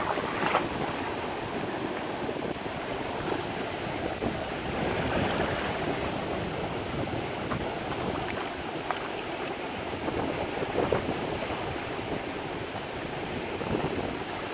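Sea waves washing, a steady rush of water that swells a little about five seconds in.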